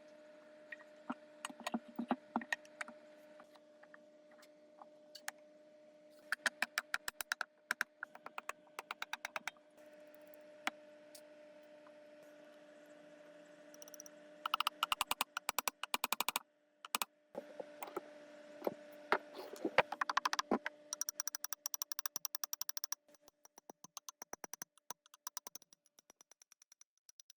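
Bursts of rapid, sharp mechanical clicking, many clicks a second, over a steady low hum.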